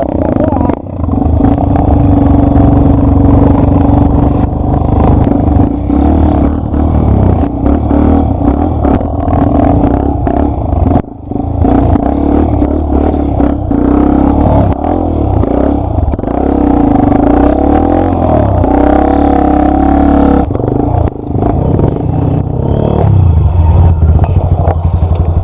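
Yamaha Lander 250's single-cylinder four-stroke engine revving and labouring under load as the dirt bike rides rough ground, the throttle rising and falling, with knocks and rattles from the bike. The throttle shuts off briefly about eleven seconds in and again near twenty-one seconds.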